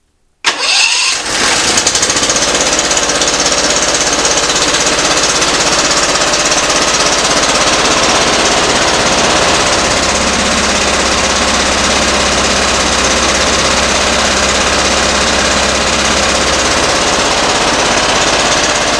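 A Briggs & Stratton Professional Series 724cc V-twin mower engine running rough, kicking in loudly about half a second in and running steadily. The uneven running is, in the mechanic's view, a sign of a cylinder not firing.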